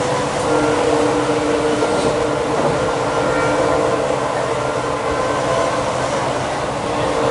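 Passenger train running at speed, heard from outside the side of the coach: a steady rumble of wheels on the rails, with a few faint held tones over it.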